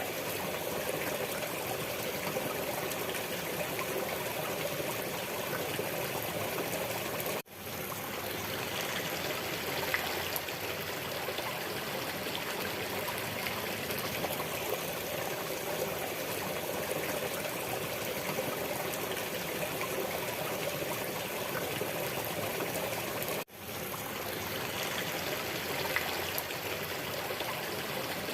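Steady flowing water, as of a stream, cutting out for an instant twice before fading straight back in.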